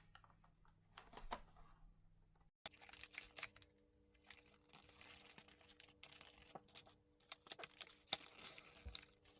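Cardboard chocolate box being folded open and handled: faint crinkling of card and paper with many small clicks.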